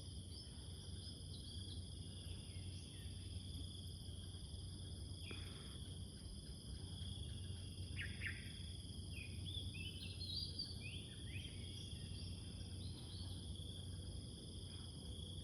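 Small birds giving short, quick chirps, scattered through the middle, over a steady high-pitched insect drone.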